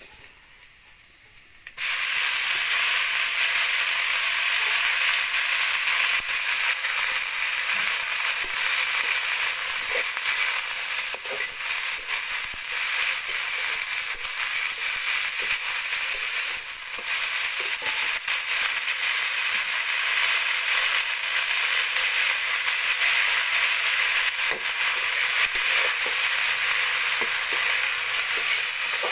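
Food frying in hot oil in a pan, a loud sizzle with scattered crackles that starts suddenly about two seconds in.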